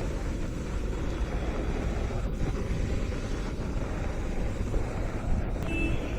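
Wind rumbling on the microphone over a steady outdoor wash of noise, with no single sound standing out.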